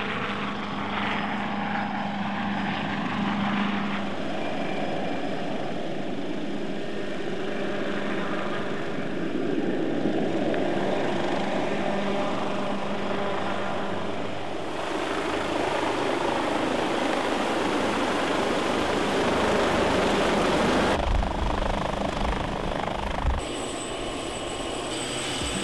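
Helicopter running in flight, a steady rotor and engine noise that changes abruptly several times, as from spliced recordings.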